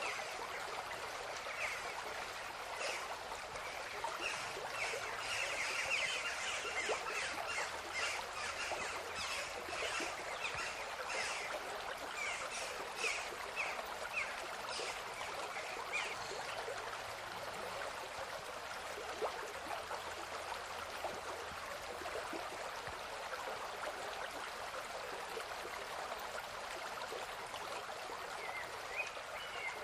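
Stream running with a steady rush of water. Many short, quick bird chirps repeat over it through the first half and come back briefly near the end.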